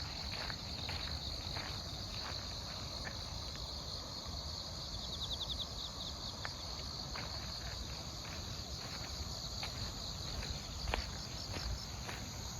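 A chorus of autumn field crickets and other grass insects singing in a steady high shimmer, with a short, fast trill about halfway through. A walker's footsteps fall at a steady pace beneath it.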